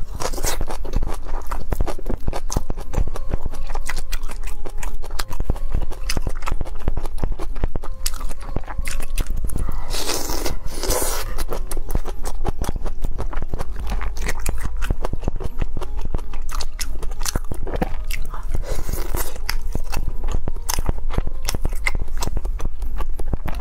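Close-miked chewing and crunching of spicy fried skewers: a dense run of small crunches and bites, with a few louder, noisier bursts around the middle and again later.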